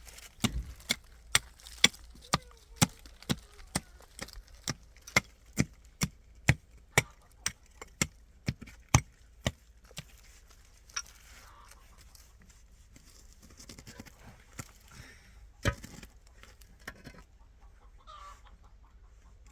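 Repeated sharp knocks of something being struck, about two a second for roughly ten seconds, then one more and a single loud knock later on.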